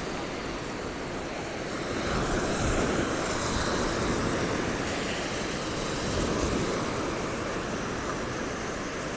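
Ocean surf breaking and washing up the beach, a steady rush that swells about two seconds in and slowly eases.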